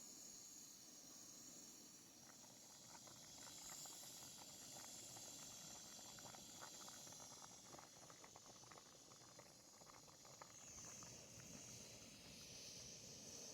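Near silence: faint outdoor background with a steady high hiss and some faint scattered ticks in the middle.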